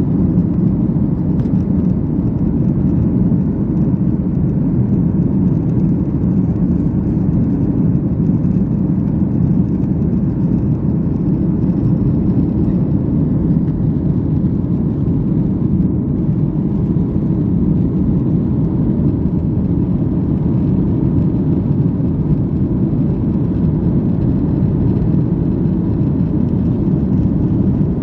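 Steady cabin noise of a Boeing 737-800 with its CFM56-7B engines at high power, heard from inside the passenger cabin during take-off and climb. It is an even, deep rush that does not change.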